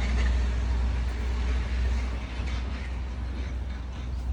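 Sinotruk HOWO 8×4 dump truck's diesel engine idling as a steady low rumble, with a haze of outdoor noise over it.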